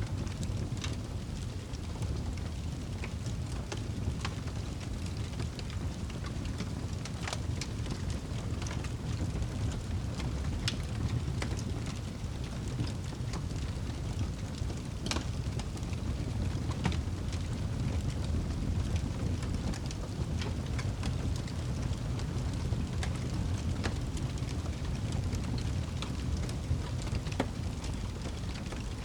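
Wood fire burning in a fireplace: a steady low rumble of the flames with sharp crackles and pops at irregular intervals, a louder snap about halfway through.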